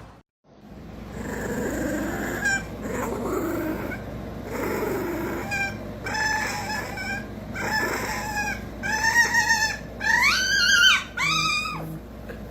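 A dog whining and howling in a string of short calls that rise and fall in pitch, growing louder and longer toward the end.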